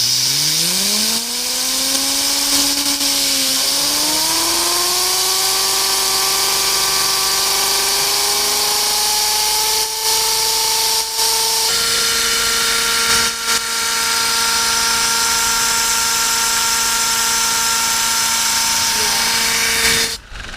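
Plastic model jet turbine spun up as fast as it will go. A whine rises steeply over the first two seconds, dips briefly, then climbs slowly to a steady high pitch over a loud rushing hiss, and cuts off abruptly near the end.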